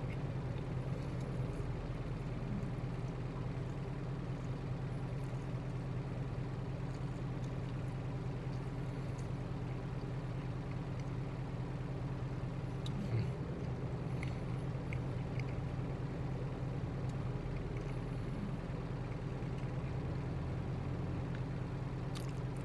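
Truck engine idling steadily, a constant low hum heard from inside the cab, with a few faint small clicks about halfway through.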